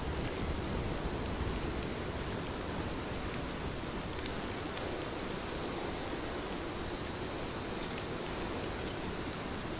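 Heavy rain falling steadily, a dense even hiss with a few faint drop ticks.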